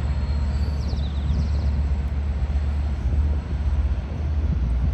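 Steady low rumble of an Amtrak Capitol Corridor passenger train pulling away from the station, with a few faint high chirps about a second in.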